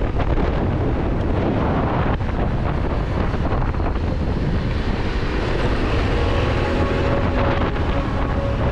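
Wind buffeting the microphone over a Yamaha Ténéré 700's parallel-twin engine running while under way, as a steady, loud mix of rushing noise and engine drone.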